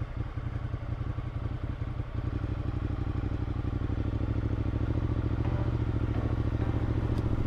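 Motorcycle engine running at low speed, its note growing a little louder and steadier about two seconds in.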